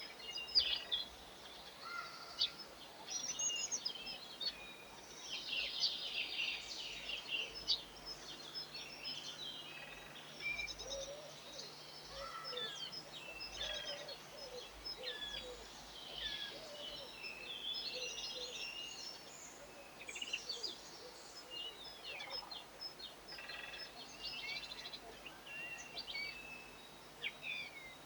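Several garden birds chirping and singing at once: a dense, overlapping chorus of short high calls and trills.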